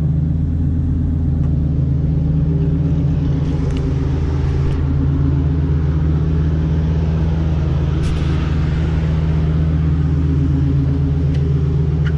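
Lamborghini Gallardo V10 with an aftermarket exhaust, running at a steady idle with a loud, even rumble.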